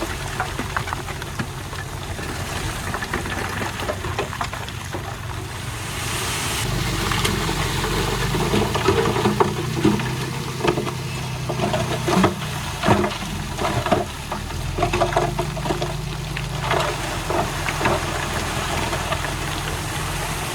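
Diesel engine of heavy earthmoving machinery running, getting louder about six seconds in as it works harder, with repeated clanks and knocks through the middle.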